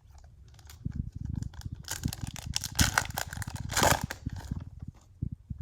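Trading-card pack wrapper being torn open and crinkled by hand, a burst of rustling and tearing in the middle.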